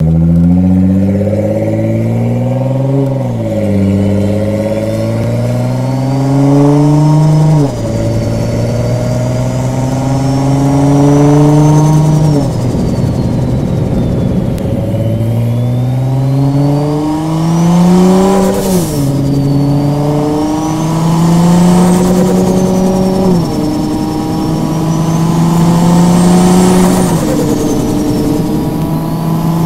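Nissan GT-R R35's twin-turbo 3.8-litre V6 accelerating hard through repeated upshifts: the engine note climbs, then drops at each shift, about six times. A high turbo whistle rises and falls with the revs, and there is a brief hiss at one shift about two-thirds of the way through.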